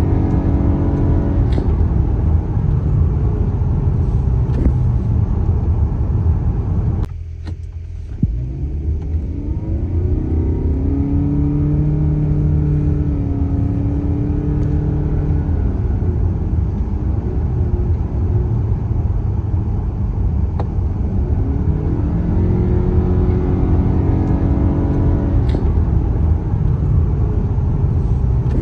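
Car driving on a highway in heavy rain: a steady road and tyre rumble, with engine tones that rise and fall. The sound drops away briefly about seven seconds in.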